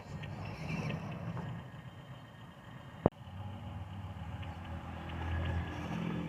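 Dump truck engine running steadily, growing louder and heavier in the last couple of seconds, with one sharp click about three seconds in.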